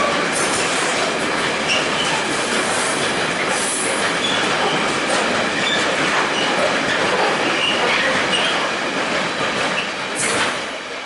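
A train passing close by: steady wheel-on-rail running noise with short high-pitched squeals from the wheels. It starts to fade about ten seconds in.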